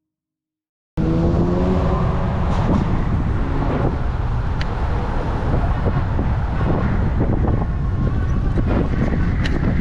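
Passing road traffic with wind rumbling on the microphone, cutting in suddenly about a second in and holding steady.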